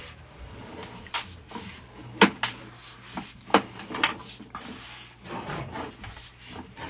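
Irregular sharp knocks and clatters, about six over several seconds, the loudest a little over two seconds in.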